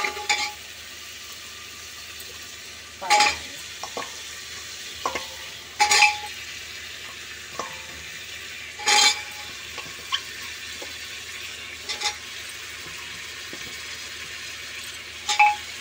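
Masala and goat trotters sizzling in an aluminium pressure cooker while a metal ladle stirs them, clanking against the pot about every three seconds.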